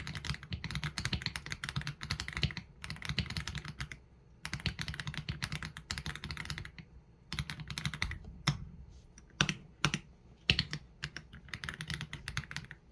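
Typing on an AULA F87 Pro mechanical keyboard with Leobog Graywood V3 linear switches and PBT keycaps. Quick runs of keystrokes are broken by short pauses, with a few separate, louder single strokes in the middle.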